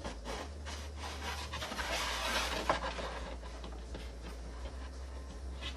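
Irregular rubbing and scraping of wood, a wooden spacer strip being worked into place.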